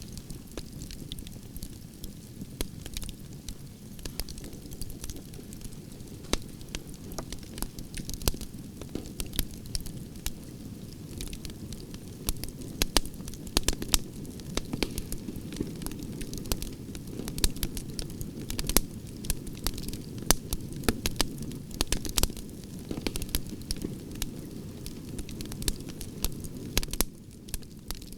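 Wood fire burning in a fireplace: a steady low rumble of flames with frequent irregular crackles and pops from the burning wood.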